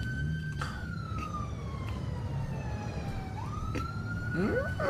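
Police car siren wailing: the pitch holds high, falls slowly for about three seconds, then sweeps back up near the end, over a steady low rumble.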